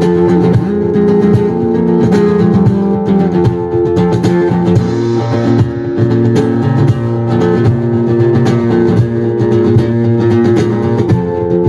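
Guitar strumming chords steadily, the instrumental introduction of a song, with no vocal yet.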